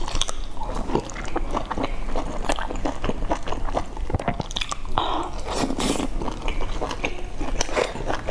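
Close-miked mouth sounds of a person biting and chewing soft, broth-soaked food: a steady run of short wet clicks and smacks, with a denser noisy stretch about five seconds in.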